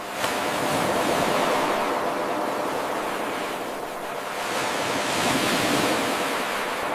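Ocean surf washing in and out: a surge about a second in that eases off around four seconds and builds again near the end. Shortly after the start the level jumps abruptly, where the eight-second wave loop restarts.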